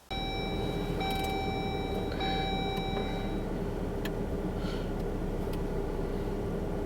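A Jeep Wrangler running, with a steady rumble and a low hum. A clear electronic chime tone sounds for the first three seconds, with a short break near the middle. A few light clicks follow.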